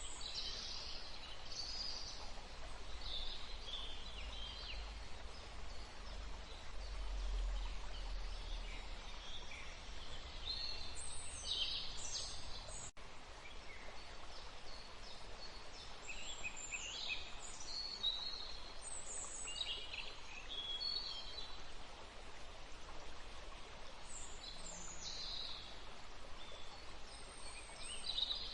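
Small songbirds chirping and calling in a forest, many short calls and trills overlapping over a steady background hiss, with a low rumble during the first third.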